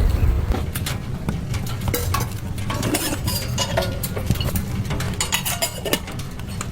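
Irregular clinks, knocks and scrapes of metal cookware or utensils being handled, over a steady low rumble of wind.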